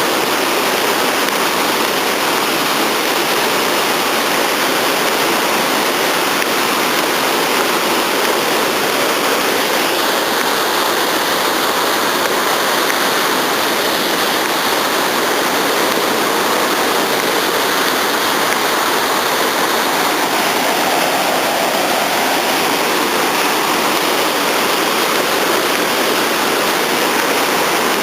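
Waterfall: a loud, steady rush of falling and splashing water, unbroken throughout.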